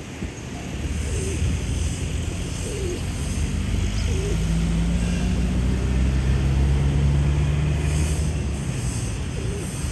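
A low engine hum from a passing vehicle, growing louder through the middle and easing off near the end.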